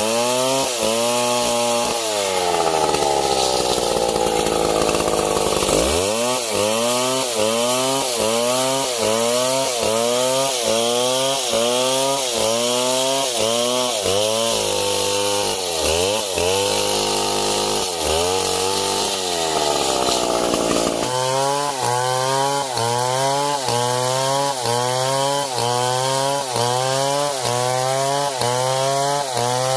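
Chainsaw running hard, its engine pitch rising and falling in a quick regular rhythm about one and a half times a second as it bites into the wood, with one long drop in pitch a few seconds in.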